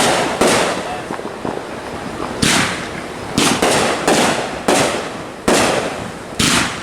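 Fireworks going off: about eight loud sharp bangs at uneven intervals, some in quick pairs, each trailing off in an echo.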